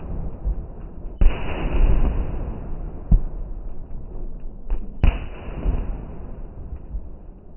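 Two aerial firework bursts about four seconds apart, each a sudden loud bang trailing off in a long fading rumble.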